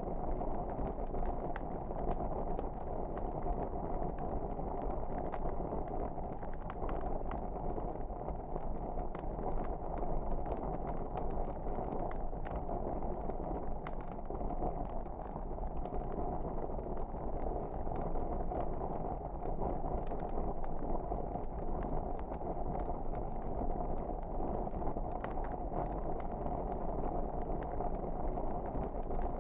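Wood fire burning: a steady low rumble with scattered faint crackles and pops.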